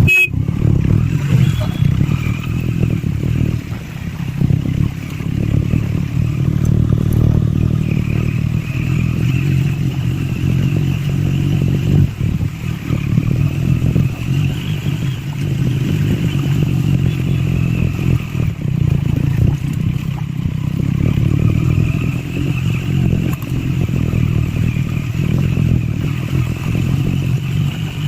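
Triumph Scrambler 400X's single-cylinder engine and exhaust running as the motorcycle is ridden off-road, its level rising and falling with the throttle.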